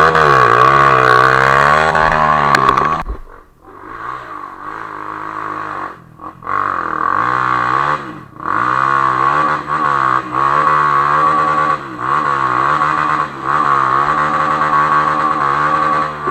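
Trail motorcycle engine revving up and down again and again under throttle. The revs drop sharply about three seconds in, and the engine cuts out briefly twice after that.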